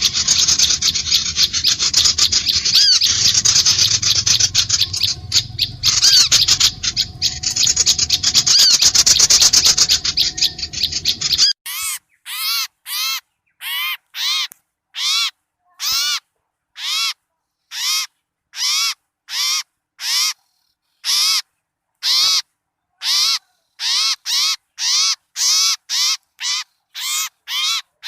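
Bird-lure recording of small birds calling noisily: a dense, agitated chorus of many small birds' chatter, then, about halfway through, one looped call repeated as short arching notes with silence between, about one or two a second.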